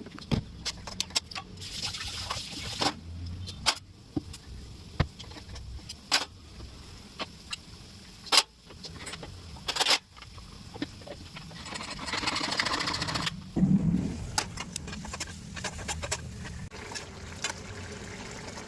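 Kitchen cooking sounds: scattered clicks and knocks of utensils on cookware, with a few seconds of rushing, liquid-like noise about twelve seconds in.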